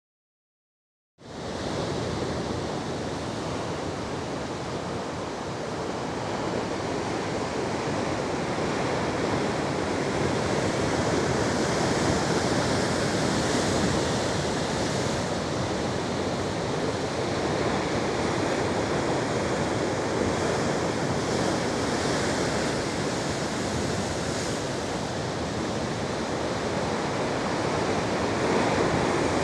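Ocean surf washing on a beach, a continuous rushing noise that swells and eases slowly, starting about a second in after a brief silence.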